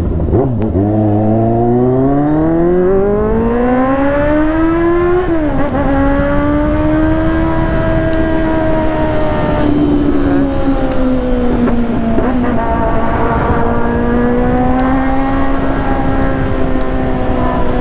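Motorcycle engine pulling through the gears: its pitch rises steadily for about five seconds, drops sharply at an upshift, then holds fairly steady, with brief dips at two more shifts about ten and twelve seconds in. A rushing noise runs underneath.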